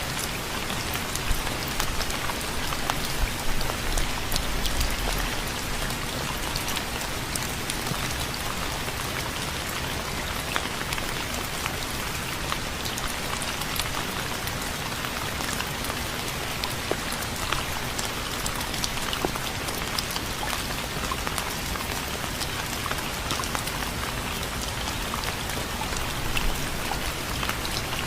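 Steady rain falling, with many separate drops ticking sharply on a hard surface close by. A brief low rumble sounds about four seconds in.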